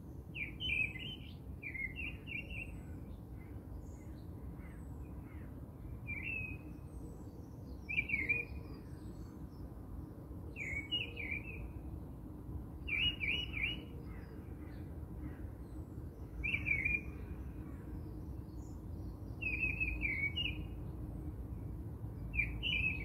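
Small birds chirping in short, bright phrases every one to three seconds, over a low steady background noise.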